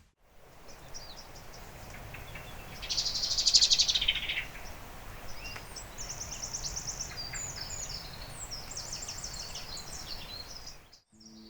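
Small songbirds singing: a loud, fast trill about three seconds in, then quick runs of high repeated notes, over a low steady hiss of outdoor background noise. The sound cuts off suddenly near the end.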